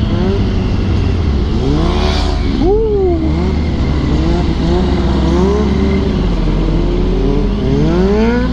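Motorcycle engine revving, its pitch rising and falling back several times over a steady low rumble.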